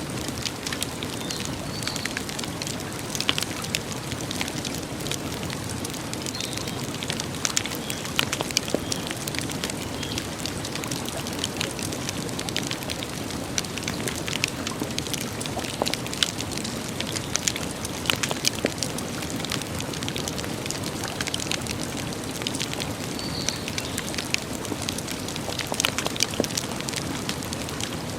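Campfire crackling: a steady hiss with frequent, irregular sharp pops and snaps of burning wood.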